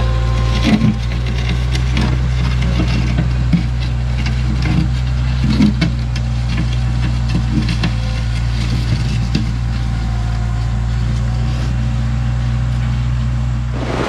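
Toyota SDK7 skid steer's diesel engine running steadily, with scattered knocks and rattles from the machine; it cuts off abruptly near the end.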